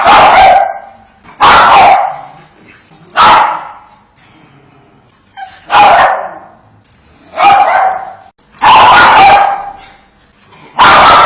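A Chihuahua barking: about seven separate barks, one every second and a half to two and a half seconds.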